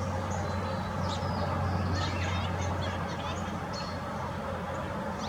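Small songbirds chirping around backyard feeders, with short high calls scattered throughout, over a steady low hum.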